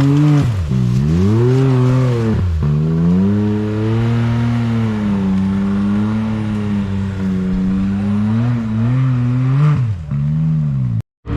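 Off-road vehicle engine working under load on a hill climb, revving up and down repeatedly with several sharp drops in pitch as the throttle is lifted and reapplied. It cuts off suddenly near the end.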